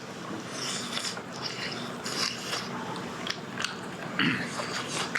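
A person chewing and biting into roast chicken close to the microphone: wet mouth sounds with small clicks and smacks.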